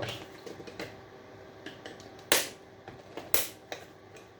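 Two sharp cracks about a second apart, with lighter clicks and taps around them: the casing of a small salvaged electrical unit being forced apart with hand tools.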